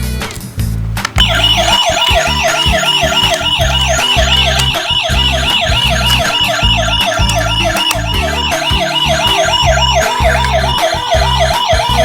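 Emergency-vehicle siren sound effect, a fast warble rising and falling several times a second, coming in about a second in over background music with a steady beat.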